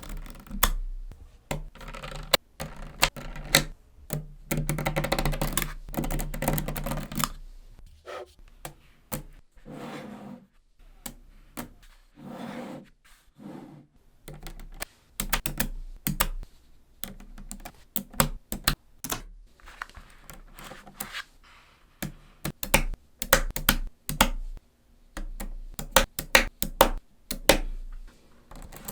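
Small neodymium magnetic balls clicking sharply as they snap together one by one, with a denser run of rattling clicks about five to seven seconds in.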